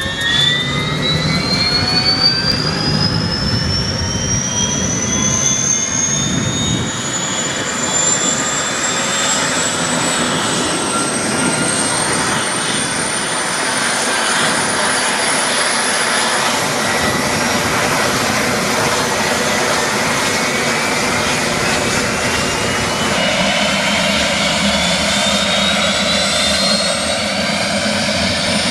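Bell 407 helicopter's turboshaft engine whining as it spools up. The pitch climbs steeply for the first several seconds, then levels off high. A second whine starts rising about two-thirds of the way in.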